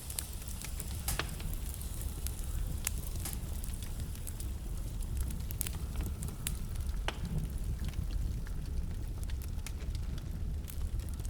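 Wood fire burning in a fireplace: a steady low rumble of the flames with scattered sharp crackles and pops, a few louder snaps among them.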